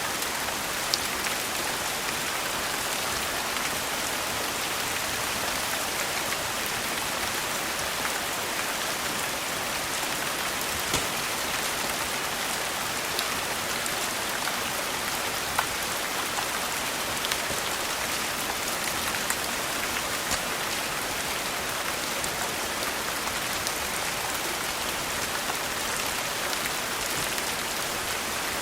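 Steady rain, with scattered sharp crackles from a wood fire mixed in.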